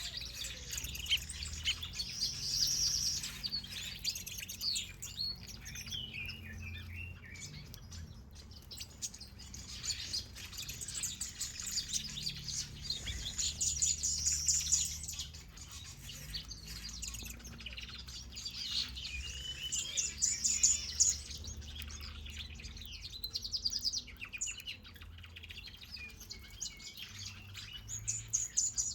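Many aviary finches and softbills chirping and singing at once, a dense, continuous mix of short high chirps and trills, over a faint low hum.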